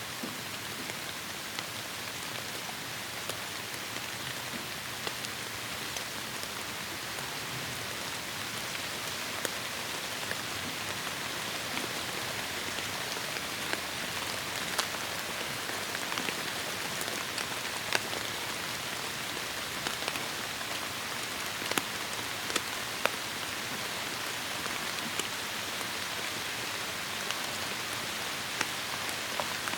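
Heavy rain falling steadily in a forest, a dense even hiss with many sharp drips and drops landing close by.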